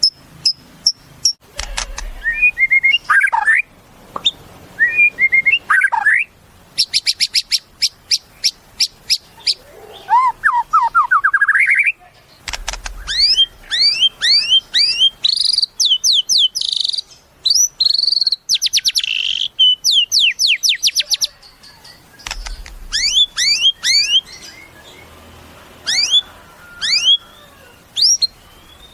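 White-rumped shama (murai batu) singing a varied, loud song: phrases of rapid dry rattling notes alternate with quick series of sharp, rising whistled notes and a rising trill, with short pauses between phrases.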